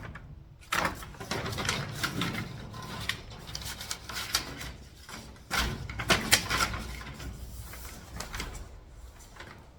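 Paper instruction sheet being handled and unfolded: irregular rustling and crinkling with a few sharper clicks and knocks.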